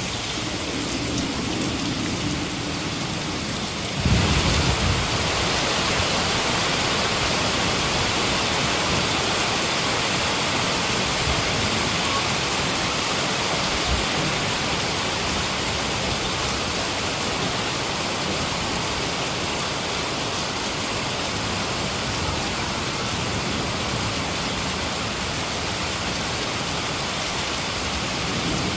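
Heavy rain falling steadily, with a low rumble of thunder about four seconds in, after which the rain is louder.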